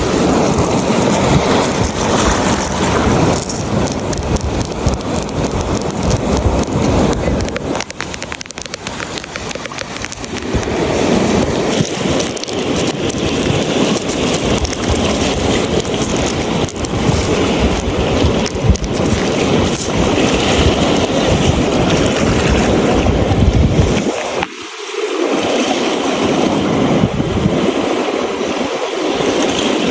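Beach surf and wind buffeting the microphone: a loud, rushing noise with a deep rumble. It swells about ten seconds in, and the rumble briefly drops out near the end.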